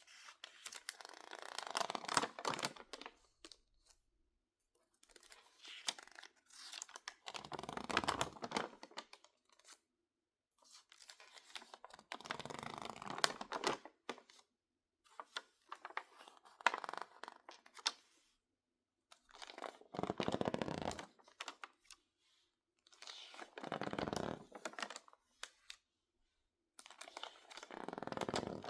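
Crinkling and rustling of stiff, water-damaged magazine pages being handled: about seven separate crackly bursts, each a second or two long, with silent pauses between them.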